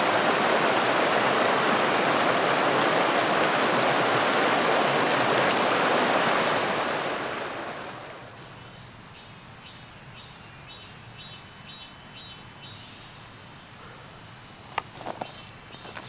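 Rushing creek water, which fades away about seven seconds in. What remains is quieter insect chirping, about two chirps a second over a steady high insect drone, with a couple of sharp knocks near the end.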